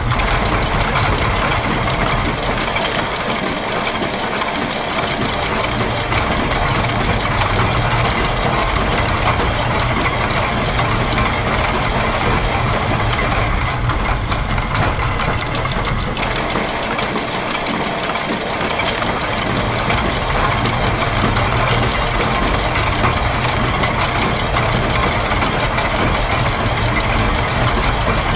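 Layered loops of factory machine sounds (gears, ratchets, a wind-up spring, a press and a sewing machine) overlapping in a dense, steady mechanical clatter over a low running rumble. The high ticking layer drops out for about two seconds near the middle, then returns.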